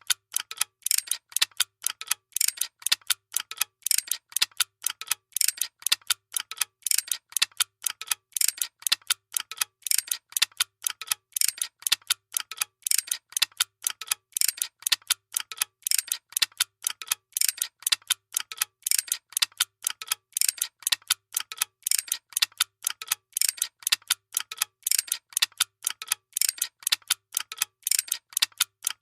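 Workshop machine running with a steady, rapid mechanical clicking, about three to four sharp clicks a second, over a faint low hum.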